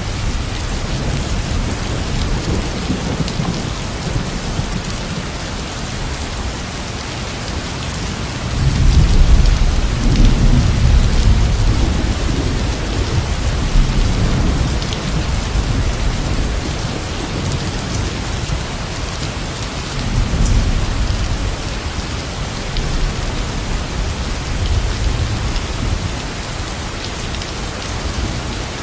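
Steady rain with low rolls of thunder, the longest and loudest swelling up about nine seconds in and a shorter one about twenty seconds in.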